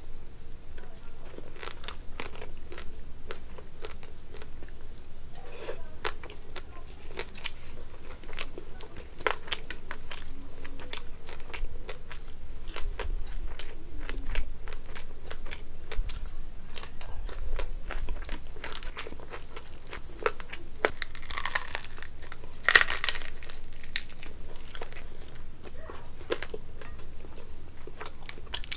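A person eating fried fish and rice by hand: steady chewing with many short wet mouth clicks and smacks. A couple of louder crunches come about three-quarters of the way through.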